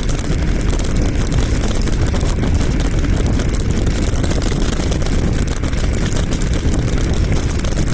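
Wind buffeting the microphone and road rumble from an electric scooter riding along at speed: a loud, steady rumble.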